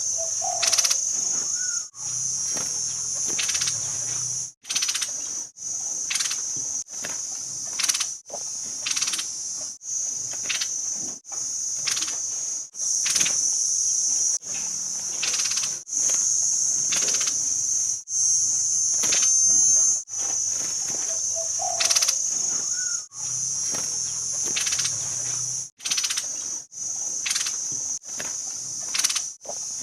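Steady high-pitched insect drone, broken by short gaps every second or two, with faint clicks and a few brief bird calls underneath; the same stretch repeats, as on a looped bird-training recording.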